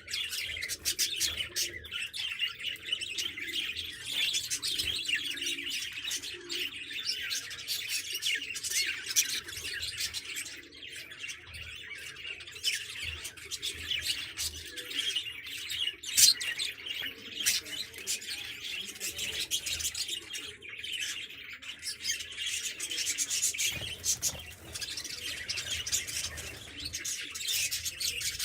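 A flock of budgerigars chattering and chirping continuously, a dense mix of warbles and sharp short calls.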